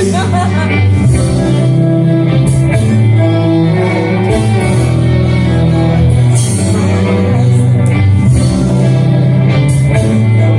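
Live band music: an instrumental stretch of a song, with a steady low bass line and percussion hits.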